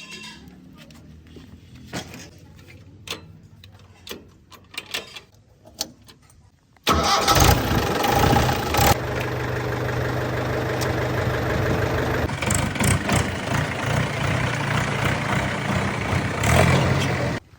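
Diesel engine of a heavy machine running steadily at close range, starting abruptly about seven seconds in and cutting off abruptly near the end. Before it there are only faint scattered clicks and knocks.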